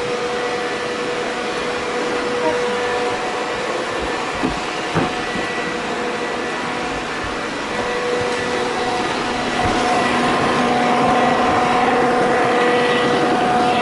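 Several robot vacuum cleaners running at once: a steady whirring hiss from their fans and brushes, with several steady whining tones on top. There are a couple of light knocks about four and five seconds in, and the sound gets a little louder after about ten seconds.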